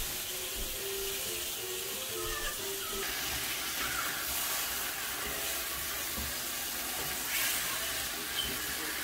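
Gilbaka fish pieces sizzling in masala in a frying pan as they are stirred with a wooden spoon: a steady frying hiss with a few brief louder scrapes of the spoon, the clearest about four and seven and a half seconds in.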